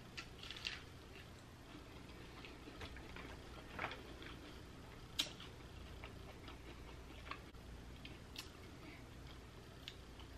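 Faint eating sounds: corn on the cob bitten and chewed, small crackles in the first second, then quiet chewing. A few sharp single clicks about five, eight and ten seconds in.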